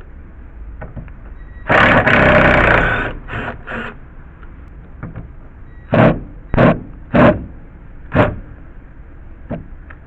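Cordless screw gun backing deck screws out of a board. It runs once for about a second, then in a string of short bursts.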